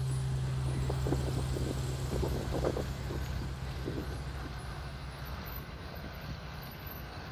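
A motor vehicle's engine hum, steady at first, fading away over the first few seconds as the vehicle draws off, leaving a faint hiss.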